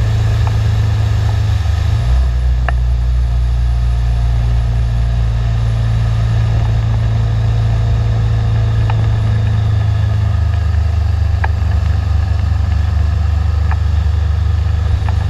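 BMW G 650 GS single-cylinder engine running steadily while riding, picked up close by a camera mounted on the motorcycle, with a brief change in the engine note about two seconds in. A few faint ticks sound here and there.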